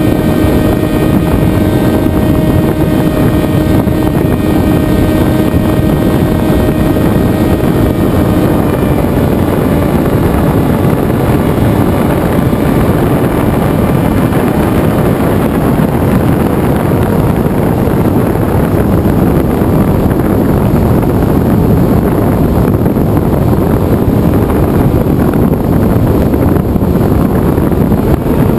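Onboard sound of a Venturi FPV flying wing in flight: the electric motor and pusher propeller hum steadily under heavy wind rush on the camera. The propeller hum fades after about ten seconds as the throttle comes back, leaving mostly the wind rush.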